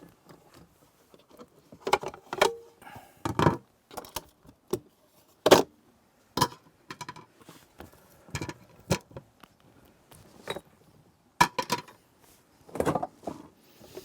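Irregular knocks, clatters and clinks of camp cooking gear being handled, a dozen or so separate short strikes with pauses between them.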